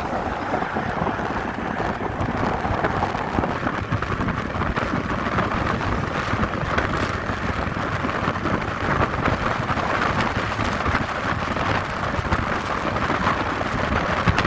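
Steady rushing of wind over the microphone while riding along at speed, with the sound of moving along the road under it.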